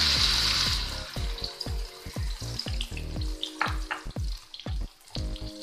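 Ground chili and spice paste sizzling as it hits hot oil in a wok. The hiss is loud at first and dies down within about two seconds to scattered pops and crackles, with background music underneath.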